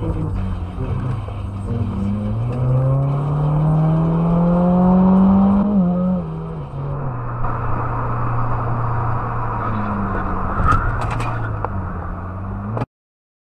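Car engine and road noise heard from inside the cabin while driving on a highway. The engine note rises steadily for several seconds under acceleration, drops about six seconds in, then settles into a steady drone. There are a few sharp clicks near the end, and the sound then cuts off suddenly.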